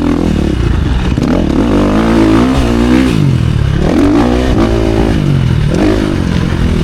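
Motocross dirt bike engine revving up and falling off again and again as it is ridden around the track, its pitch climbing and dropping several times.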